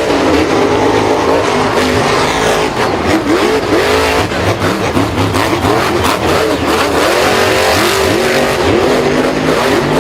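Several engines revving and running together, their pitch rising and falling again and again in overlapping sweeps.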